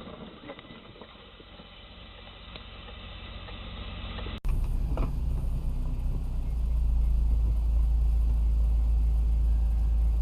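A faint, fading noise, then an abrupt cut about four seconds in to a steady low rumble of a car driving, as heard from inside the vehicle.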